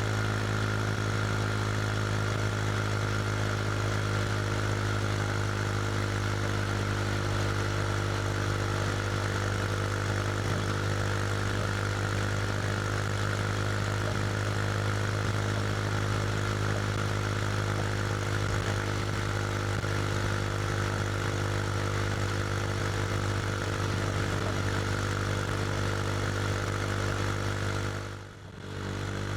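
KTM RC 390's single-cylinder engine running through an SC Project slip-on exhaust at a steady, unchanging pitch while cruising. Near the end the sound dips briefly, then the note picks up again at a shifting pitch.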